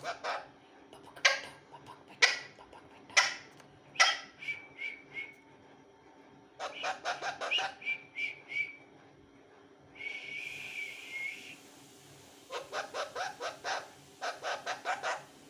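Pet parrot calling and mimicking: a few sharp single calls, short whistles, and runs of quick repeated notes about four a second, with a longer held whistle about ten seconds in.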